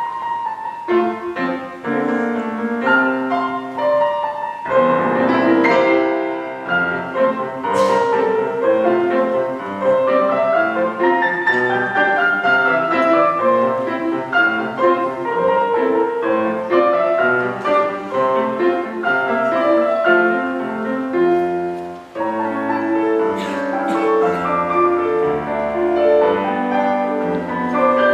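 Piano playing a continuous melody over chords, with a few brief high sounds about eight seconds in and again near the end.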